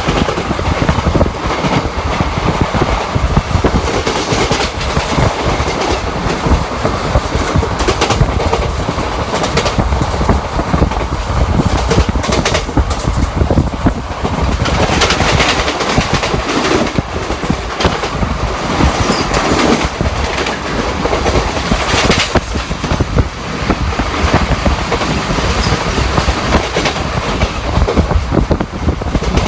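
ICF passenger coach running on the rails: steady wheel-and-rail rumble with repeated clickety-clack of the wheels over rail joints.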